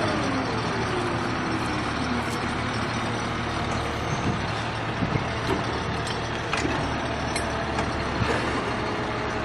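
Heavy vehicle's engine running, its revs falling away over the first couple of seconds and then holding a steady low rumble.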